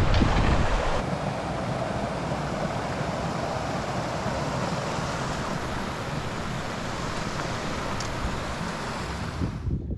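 Steady rushing of river water, with wind buffeting the microphone in about the first second. The sound cuts off abruptly near the end.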